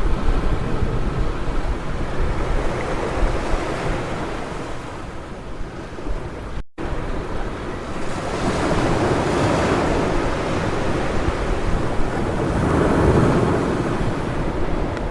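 Ocean surf breaking and washing up a beach, with wind rumbling on the microphone. The sound drops out for an instant about halfway, and two louder surges of surf follow in the second half.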